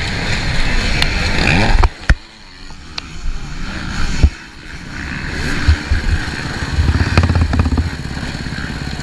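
Motorcycle engine running, cutting off suddenly about two seconds in, with sharp knocks near then and again about four seconds in. The engine sound then builds back up, uneven and surging, through the second half.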